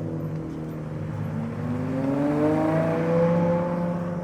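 Car engine sounds: one engine runs steadily while another's revs climb for a second or two as the car pulls away, then level off.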